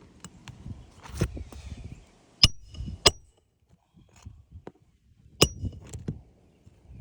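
Hammer blows driving roofing nails with a roof snake nailing tool: three sharp metallic strikes with a brief ring, two close together and one a few seconds later, among lighter taps and rustling of the shingles.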